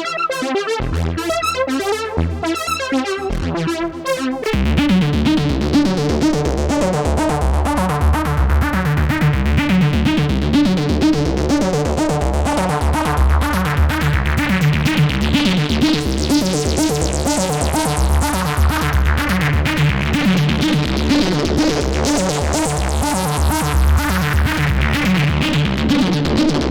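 Dreadbox Typhon monophonic analog synthesizer playing a factory preset. About four and a half seconds in, the sound changes from a sparse patterned figure to a dense, sustained tone with a steady deep bass and a bright top that sweeps slowly up and down.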